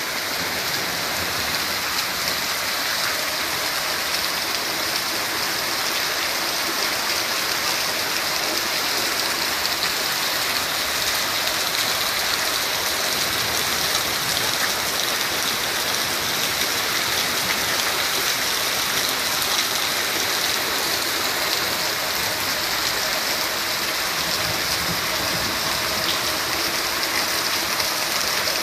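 Steady heavy rain falling and splashing on surfaces.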